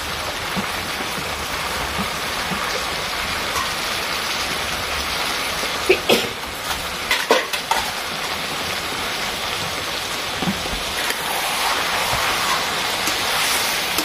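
Steady rain falling, an even hiss with a few sharp knocks about six to seven and a half seconds in.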